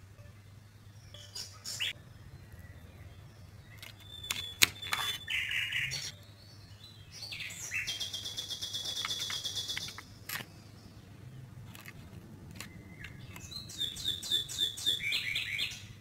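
Birds chirping: a fast, even trill of high chirps for a couple of seconds mid-way, and a quick run of falling chirps near the end. Several sharp clicks and taps come a few seconds in.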